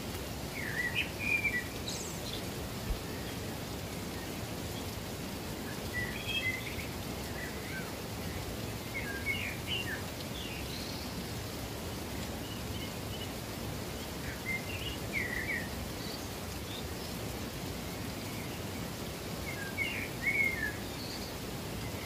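A songbird singing short chirping phrases, five times, about every four to five seconds, over a steady hiss of running water.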